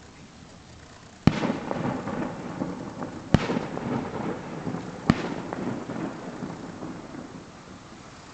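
Three fireworks shells bursting at a distance, each sharp bang followed by a long rolling rumble of echoes off surrounding hills. The bangs come about two seconds apart, and the rumble dies away over the last seconds.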